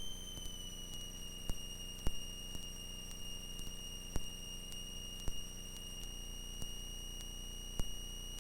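Sped-up cockpit audio of a Cessna 172RG taxiing: a steady high whine over the engine's low drone, dipping slightly in pitch about a second in, with short clicks every second or so.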